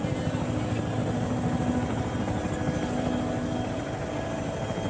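Helicopter rotor and engine running steadily, heard from inside the cabin: a rapid, even beat of the blades under a steady whine.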